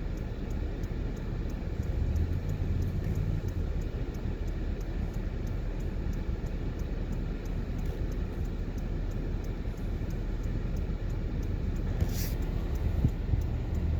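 Steady low rumble of a car driving: engine and tyre noise heard from inside the cabin, with a brief hiss about twelve seconds in.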